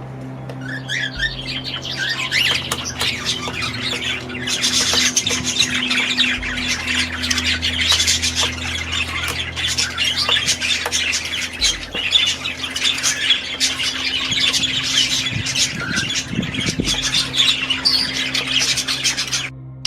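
Many aviary birds squawking and chattering together, a dense, continuous clamour of overlapping calls over a steady low hum. The calls stop briefly just before the end.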